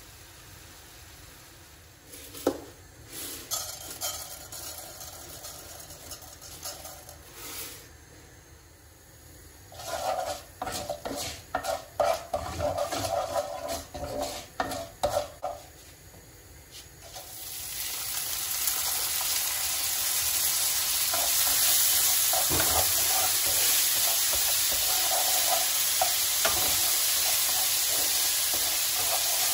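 Cooking in a pan: a few knocks, then a run of quick clinks of a utensil against the pan. A little past the middle, food in the hot pan starts sizzling, a steady frying hiss that holds to the end.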